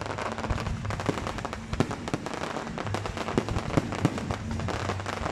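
Fireworks display going off: a dense, continuous run of crackles and pops from crackling shells, with a few louder bangs scattered through.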